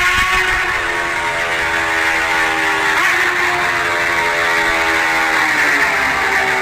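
Motorcycle engine running on the move. Its pitch falls slowly as the engine speed drops, rises briefly about three seconds in, then falls again, over steady wind and road noise.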